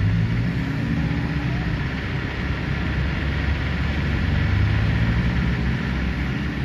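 A vehicle engine running steadily under load during a mud recovery. A Ford Ranger pickup is stuck in deep ruts on a recovery line, and the engine note strengthens a little about halfway through, then eases.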